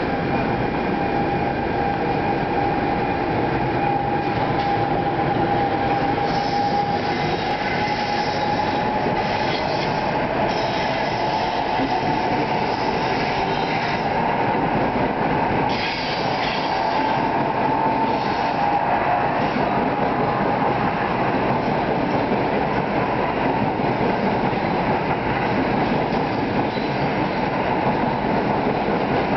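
NJ Transit Arrow III electric multiple-unit train departing and running past: a steady rumble of wheels on rails, with a whine that rises slowly in pitch as the train picks up speed.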